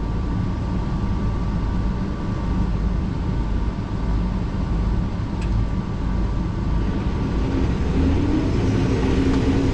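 Rotary combine harvester running steadily while combining corn: a low, even rumble, with its rotor turned down to about 400 rpm because it was grinding the grain. A steady hum joins in about seven seconds in.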